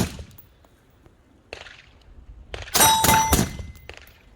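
A shot about a second and a half in, then a rapid string of shots near the three-second mark, each with steel targets clanging and ringing.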